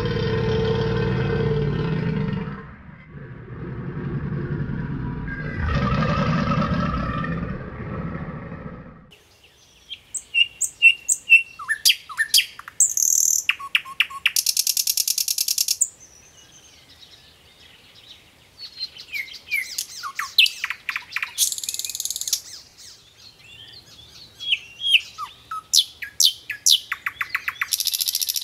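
An alligator growling: two long, low rumbling growls, the second one longer. Then birds chirping and trilling, with sharp high chirps and fast buzzy trills coming in clusters.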